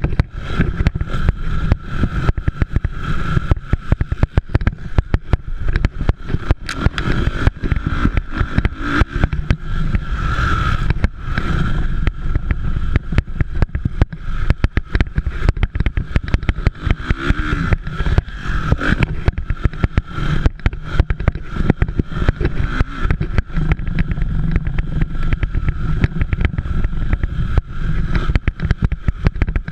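Motocross dirt bikes running on a race track. Their engine note rises and falls over a heavy, choppy low rumble that never lets up.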